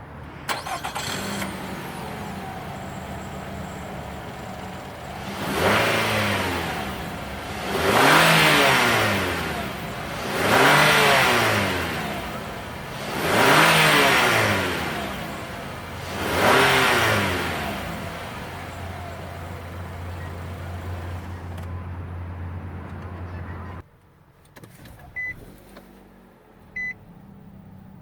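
2017 Nissan Rogue's four-cylinder engine starting and settling to idle, then revved five times in quick succession, each rev rising and falling, before idling again and shutting off. A few short high beeps follow after shutdown.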